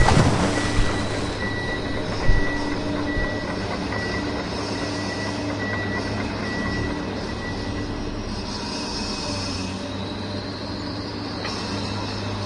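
A splash as a toy backhoe loader plunges into a muddy puddle, then a steady vehicle-like drone with a high beep repeating for the first half.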